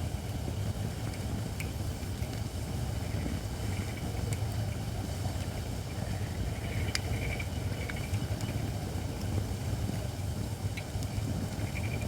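Wood fire of Japanese white oak logs burning steadily with a low rumble and a few sharp crackles. Short hisses come from the not-yet-dry oak as moisture boils out.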